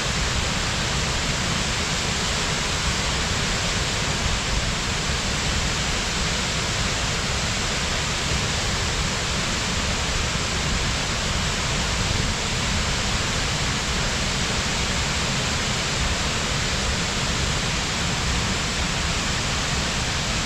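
Waterfall pouring steadily, a constant full rush of falling water with no breaks.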